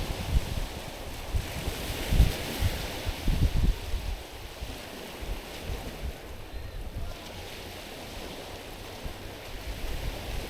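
Small sea waves lapping and washing over the stones of a rocky shore, with wind buffeting the microphone. The wash swells about two seconds in and eases off after about six seconds.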